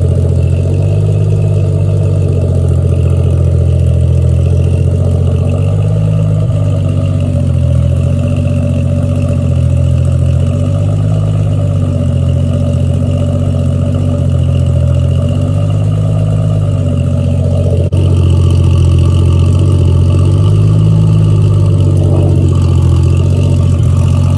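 Triumph TR6 2.5-litre straight-six running steadily at a low idle, its speed wavering slightly up and down. The engine is freshly rebuilt, with only 15 to 20 minutes of running time on it.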